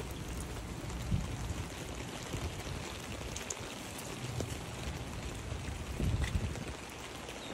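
Steady hiss of falling rain, with a few brief low thumps about a second in and again about six seconds in.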